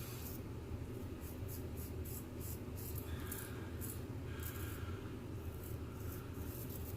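Geo Wostenholm & Sons straight razor scraping through lathered stubble in a quick run of short, irregular strokes.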